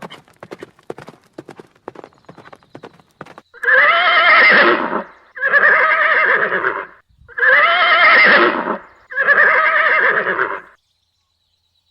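Horse hooves clip-clopping in quick, even clicks for about three and a half seconds. Then a horse whinnies four times in a row, each call about a second and a half long, and the calls stop about a second before the end.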